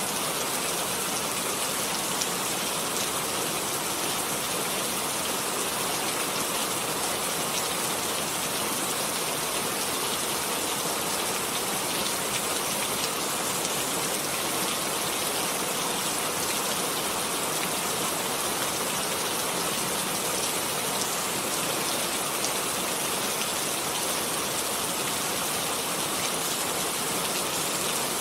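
Steady rain falling, an even dense hiss of many drops with no let-up.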